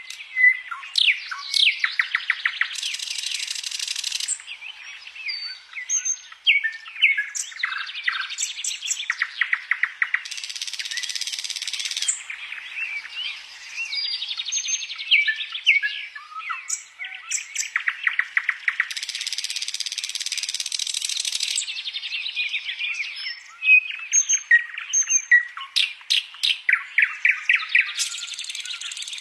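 Songbird singing a long, varied song: rapid strings of clipped, chattering notes and short whistles, broken several times by harsh buzzing rattles lasting a second or two.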